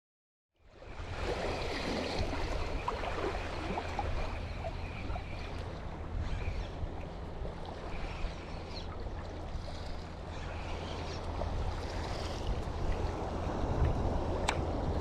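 Motorboat underway: engine running steadily under the rush and splash of water along the hull and wind on the microphone, starting abruptly about half a second in.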